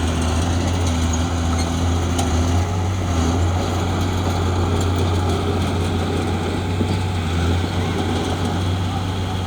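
Heavy diesel engine of a bulldozer running steadily, a constant low drone, with a few faint clicks over it.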